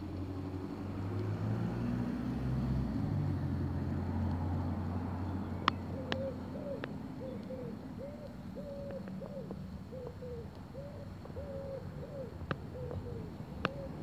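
A bird calls a run of short, low hooting notes, about two a second, starting about six seconds in and running to near the end. Before it, a low rumble swells and fades. A few faint clicks sound now and then.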